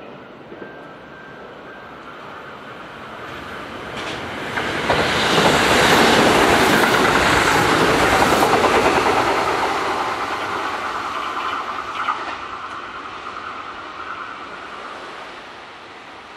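Kintetsu commuter electric train passing at speed: wheels clatter over the rail joints, the sound swelling about five seconds in, peaking, then fading away with a thin steady whine.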